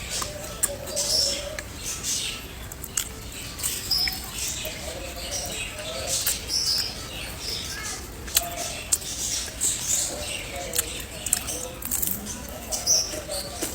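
Close-miked eating of fried banana fritters: crisp crunching and chewing with frequent short mouth clicks and smacks.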